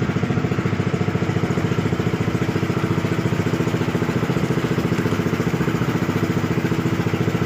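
Small fishing boat's engine running steadily, with a fast, even beat.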